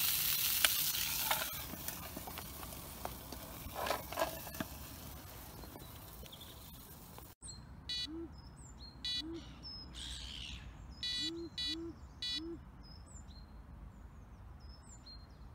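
Sausages sizzling in a pan on a portable gas-canister stove, the sizzle fading away over the first several seconds. After a sudden cut, birds call several times and small birds chirp.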